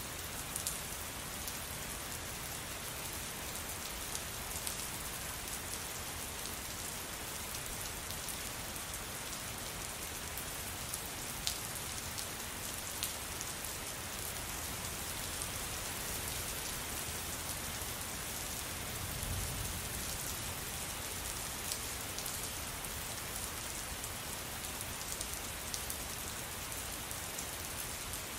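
Steady rain falling: an even hiss with scattered sharper drop ticks, and a brief low rumble about two-thirds of the way through.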